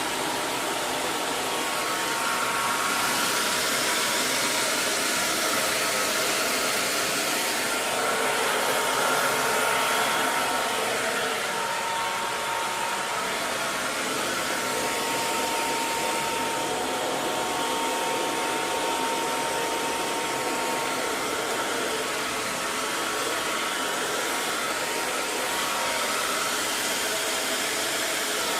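Hair dryer running continuously: a steady rush of blown air with a faint whine from the motor.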